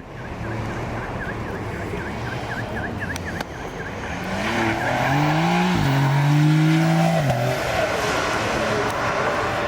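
Rally car engine accelerating past, rising in pitch, dropping sharply at a gearshift about six seconds in, then holding steady before falling away.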